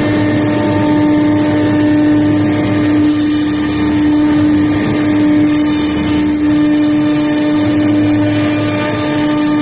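CNC router spindle running steadily with a constant whine while it carves a wood panel, over a steady hiss.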